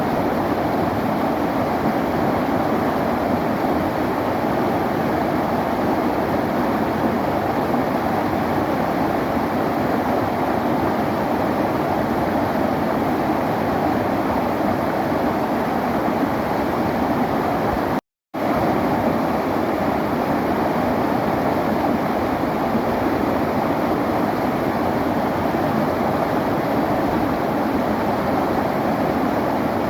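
River water flowing steadily, an even rushing sound, broken by a brief moment of silence about eighteen seconds in.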